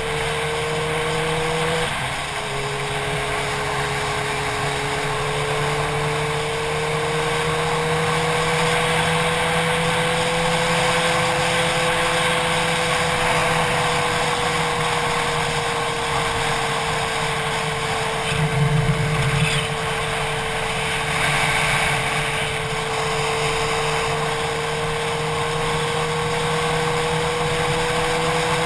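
Motorcycle engine running at a steady cruise, its pitch drifting slightly up and down, with wind rushing over the helmet-mounted camera.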